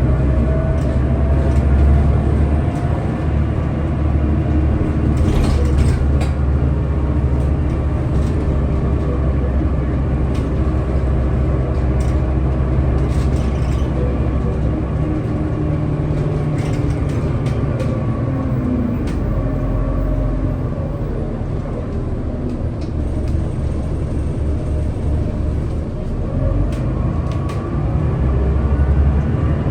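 Scania L94UB city bus running on the move, its engine note rising and falling as it speeds up and slows, with a few short clicks and rattles. The engine eases off about two-thirds of the way through, then pulls harder again near the end.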